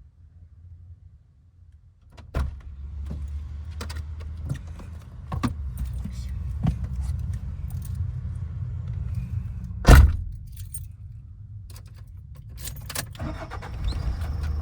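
Keys jangling and clicking, then a Toyota HiAce van's engine starts about two seconds in and idles steadily. A single loud thump comes about ten seconds in.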